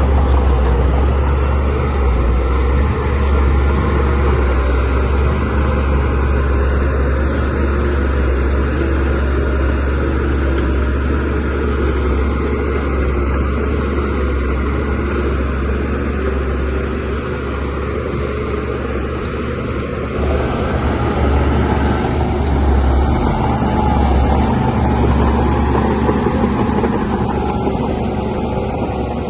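Shantui DH17C3 Pro bulldozer's diesel engine running steadily under working load, with a strong low hum. It grows a little louder about two-thirds of the way through, then eases.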